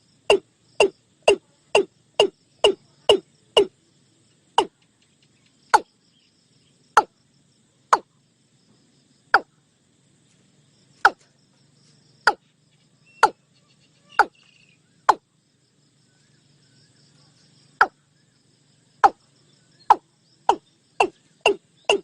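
Watercock (cúm núm) calling: a series of short notes, each falling in pitch, about two a second at first, slowing to about one a second with a pause of a few seconds past the middle, then quickening again near the end.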